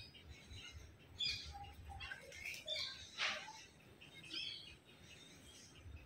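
Birds chirping and calling: scattered short, high chirps, with a couple of harsher calls about a second in and about three seconds in.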